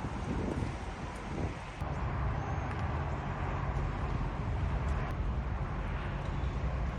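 A vehicle engine running with a steady low rumble, growing louder and more even about two seconds in.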